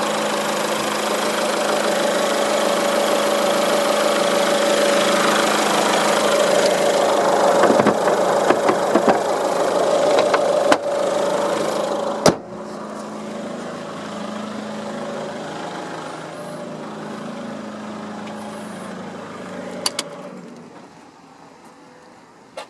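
Mazda 5 engine idling steadily. About twelve seconds in there is a single sharp bang as the bonnet is shut, after which the engine sounds more muffled. The engine stops a couple of seconds before the end.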